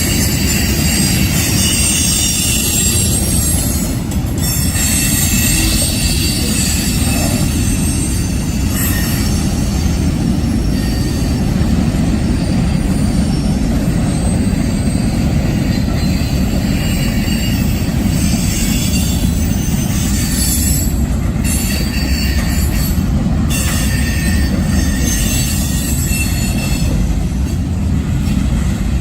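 Freight train rolling past: a steady heavy rumble of the rail cars on the track, with high-pitched squealing of wheels against the rails rising and fading on and off.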